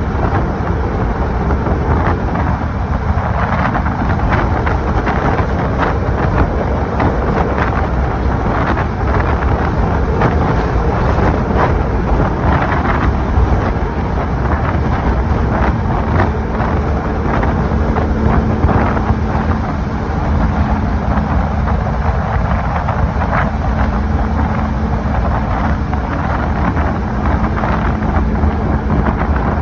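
Strong wind buffeting the microphone, a dense steady rush with crackling gusts. About halfway through, a steady low hum joins it.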